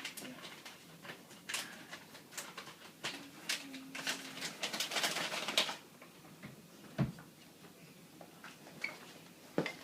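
A dog's claws scrabbling and scuffing on a hard floor as he resists being dragged, a run of clicks and scrapes, then a single thump about seven seconds in.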